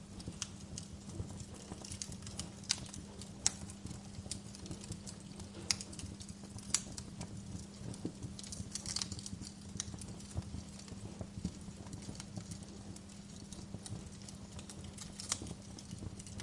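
Wood fire crackling in a fireplace: irregular sharp pops and snaps of burning logs over a low, steady rumble.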